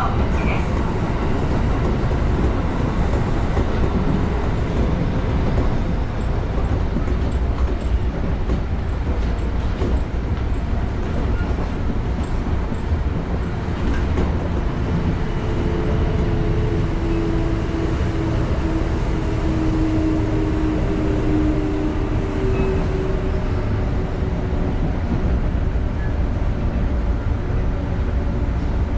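Kintetsu Ikoma Line electric train running along the track, heard from behind the driver's cab: a steady rumble of wheels on rail. A humming tone joins in for several seconds about halfway through, dropping slightly in pitch.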